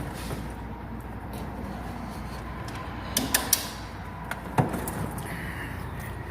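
Three sharp metal clicks in quick succession a little past halfway, then one more clunk about a second later, from the 1931 Ford Model A's emergency brake lever and linkage being worked to set the brakes.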